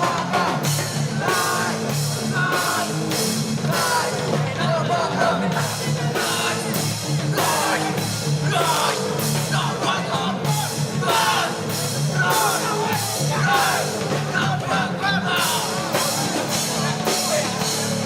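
Hardcore punk band playing live: distorted guitars and bass under a drum kit with cymbal hits about twice a second, and shouted vocals over the top.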